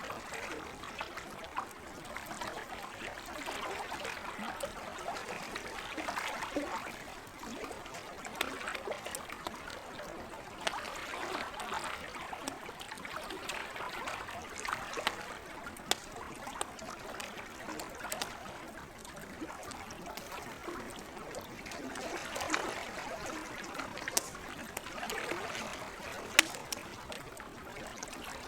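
Campfire crackling, with sharp pops scattered throughout and one louder pop near the end, over lake water lapping gently in soft swells every couple of seconds.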